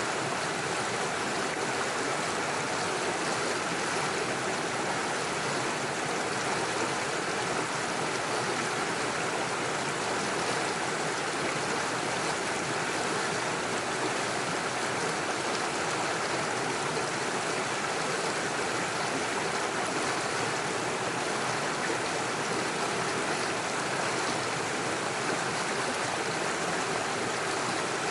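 Small mountain stream rushing and splashing over stones through little waterfalls, a steady, even sound of running water.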